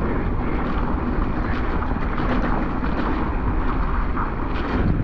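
Mountain bike riding down a wet, muddy trail: steady wind rush over the camera microphone with the tyres and frame rattling over bumps, briefly dipping near the end.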